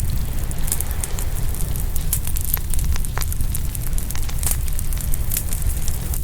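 Open wood fire crackling and popping, with many sharp pops at irregular intervals over a steady low rumble.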